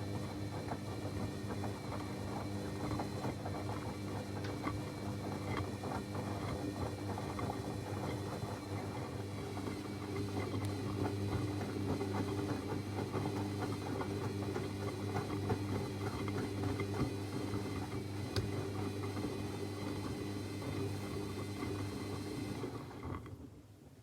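Techwood WB 91042I washing machine running with a steady electric hum and a crackling patter of water and laundry, cutting off about a second before the end.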